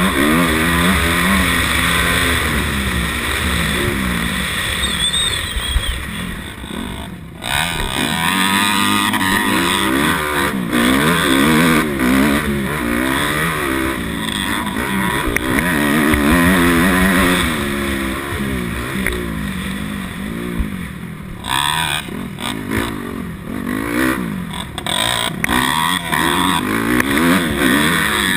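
A 250 motocross bike's engine revving up and down over and over as the rider works the throttle and gears, with the engine note dropping away briefly twice.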